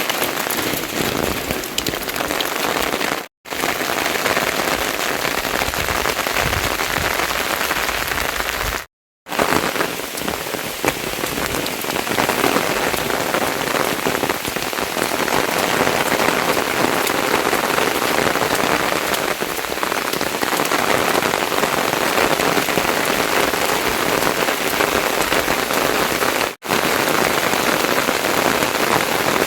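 Loud, steady rain falling, a dense even hiss that cuts out for an instant three times.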